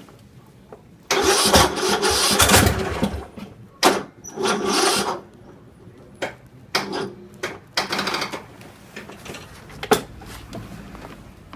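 Cold-soaked engine being cranked by its starter in extreme cold, in several bursts, the longest about two seconds. It nearly catches but does not start.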